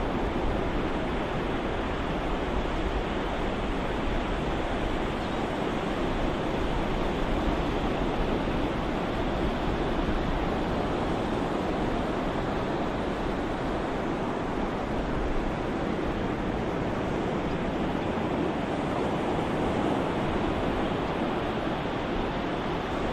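Ocean-waves white noise: a steady, even wash of surf with no distinct swells or breaks.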